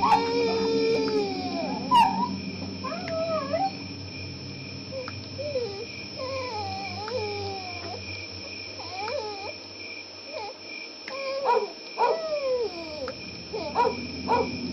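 Dogs whining and howling in many short, wavering cries that rise and fall in pitch, over a steady high-pitched drone and a low hum. There is a sharp click about two seconds in.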